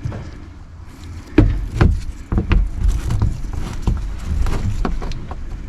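A series of short sharp plastic clicks and knocks, about eight or nine, starting about a second and a half in, as the small access flap on the engine undertray is pushed and clipped back shut.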